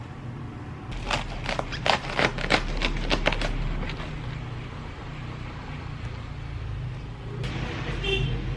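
Kitchen clatter: a quick run of sharp clicks and knocks about a second in, over a steady low hum.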